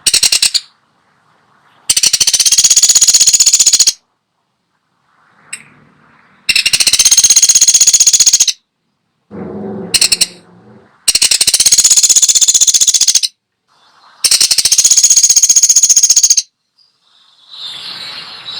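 Woodpecker giving long, very rapid rattling calls: four bursts of about two seconds each, a few seconds apart. A shorter, lower, rougher sound comes between the second and third bursts.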